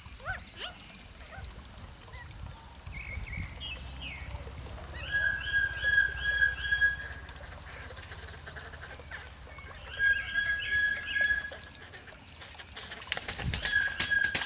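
Bird calling from the aviary in loud phrases, each a held steady note with quick repeated notes above it, lasting a second or two; the phrases come about five seconds in, about ten seconds in, and again near the end, with softer calls between.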